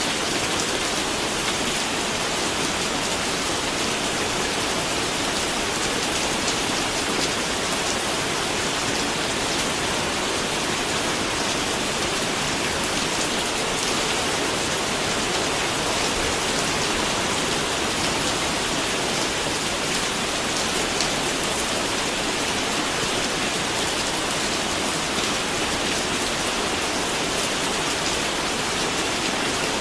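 Steady, unbroken rainfall: an even hiss of many raindrops pattering on a surface.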